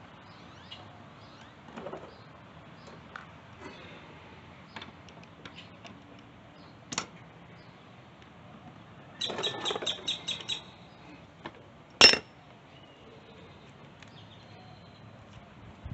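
Scattered light clicks and clinks, with a quick run of about seven clicks a little past halfway and one sharp, louder clink about twelve seconds in.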